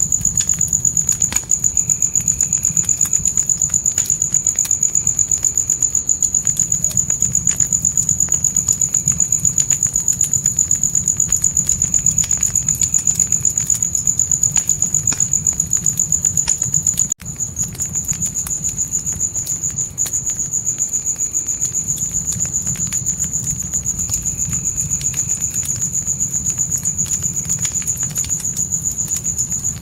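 Crickets chirping in a fast, steady, high trill over a campfire's low rumble with scattered crackles and pops. The sound drops out for a moment about halfway through.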